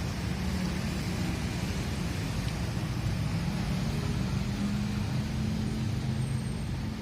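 Steady low rumbling background noise with a faint hum, unbroken and even throughout.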